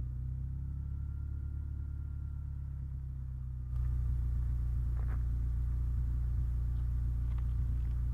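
Honda Civic's B20B VTEC inline-four idling steadily through its exhaust, a low even rumble that grows a little louder about four seconds in.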